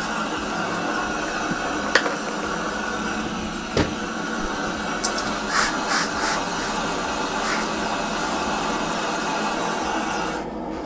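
Steady hissing noise with a few sharp clicks, the loudest about two seconds in, and a short cluster of knocks and scrapes just past the middle.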